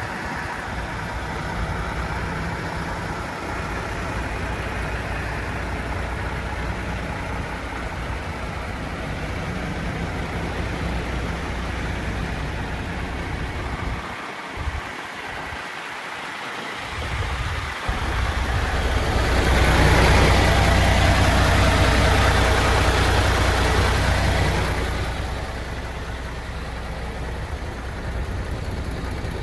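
Diesel engine of a MAN TGX 18.460 truck running at a steady idle. It drops away briefly in the middle, then swells louder for about five seconds in the second half before settling back to idle.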